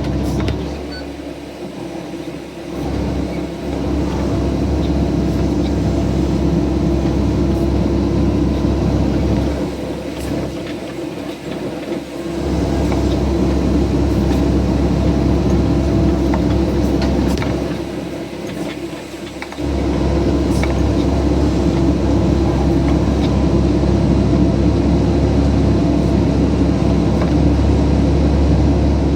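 CAT excavator's diesel engine running under hydraulic load while it works a grapple saw. The engine eases off briefly three times, about a second, ten seconds and eighteen seconds in, and picks back up each time.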